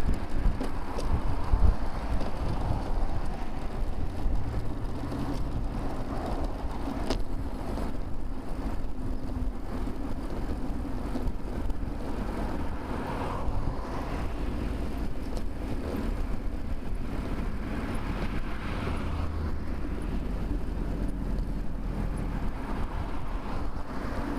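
Steady road and wind noise picked up by a rear-facing camera on a moving bicycle, with the sound of motor traffic swelling now and then.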